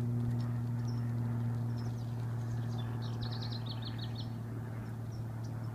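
A bird sings a quick trill of about ten short high notes about three seconds in, over a steady low hum.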